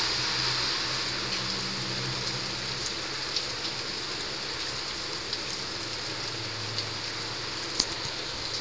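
Heavy rain falling steadily on roofs, with a few sharp drip ticks close by.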